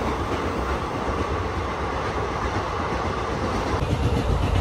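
A local passenger train running on the rails, heard from inside the coach: the steady noise of the wheels and carriage, strongest in the low end.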